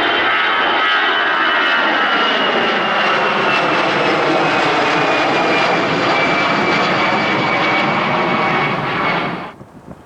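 Jet airliner engines running loud as the plane passes close, a high whine in the noise slowly falling in pitch; the sound cuts off abruptly near the end.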